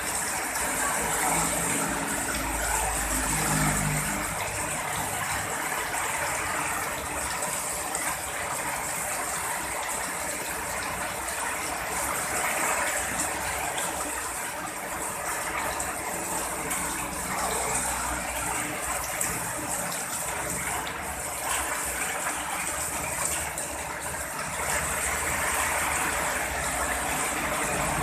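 Heavy rain pouring steadily, with a low rumble of thunder between about two and four seconds in.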